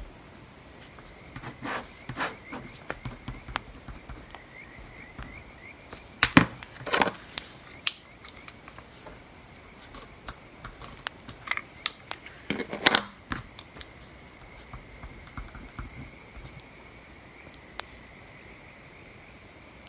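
Desk sounds of studying: scattered light taps and clicks of pen and stationery, with a few louder rustles about six and thirteen seconds in, over a faint crackling bonfire ambience.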